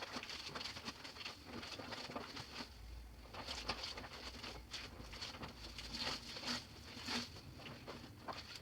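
Water splashing and sloshing in irregular bursts as clothes are hand-washed in a basin.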